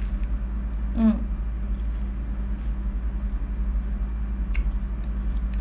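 A person chewing crispy battered, deep-fried squid, with a few faint mouth clicks. A short voiced 'mm'-like sound comes about a second in, all over a steady low hum.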